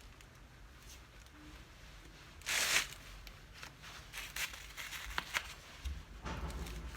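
Hand work on a cart tyre and wheel. A short, loud rasping rustle comes about two and a half seconds in, followed by scattered light clicks and taps of tools and parts, and a low rumble near the end.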